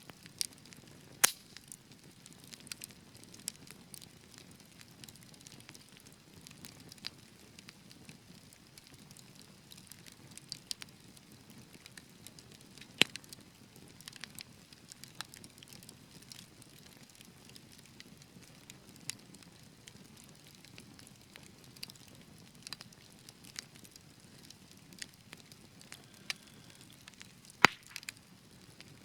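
Wood fire burning with a low steady hiss and scattered sharp crackles and pops, three of them louder than the rest: about a second in, near the middle, and near the end.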